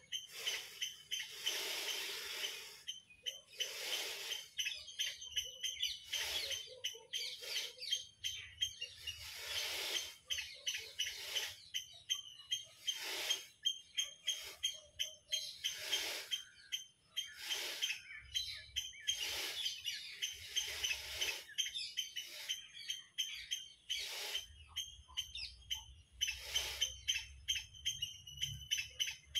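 Birds chirping and calling, with short noisy bursts every second or two over a steady high thin chirring.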